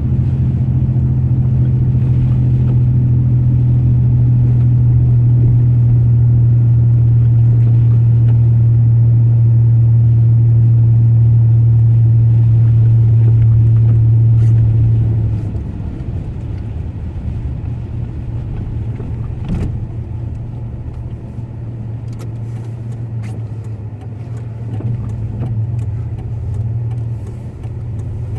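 A pickup truck's engine and road noise heard from inside the cab, a steady low drone that drops off sharply about halfway through, then a quieter rumble with a few light clicks.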